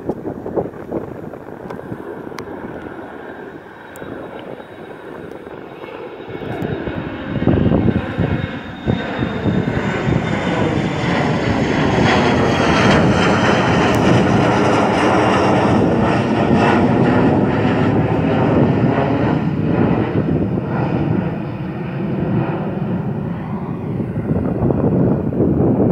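Jet airliner's engines at takeoff power as the plane departs. The roar builds to loud about a quarter of the way in and stays loud, with a thin whine that slowly falls in pitch.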